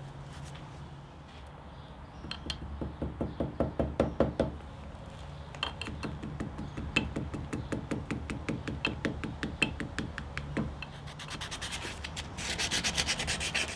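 Rapid back-and-forth hand strokes of an abrasive, a file or sandpaper, on the steel of the knife's blade and guard, cleaning them up. There are several strokes a second, with a short lull about a third of the way through and faster, brighter strokes near the end.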